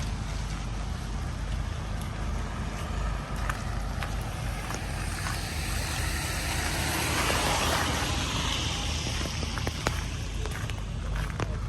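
A vehicle passing on a wet street, its tyre hiss swelling to a peak and fading away around the middle, over steady outdoor street noise with a low rumble.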